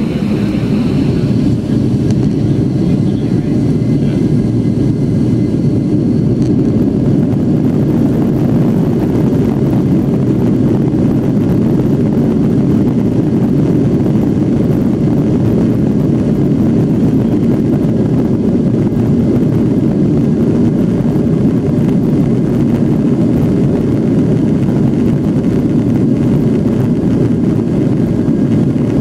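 Boeing 757 jet engines during takeoff, heard from inside the passenger cabin as a loud, steady, deep rumble. A faint high whine is heard in the first couple of seconds.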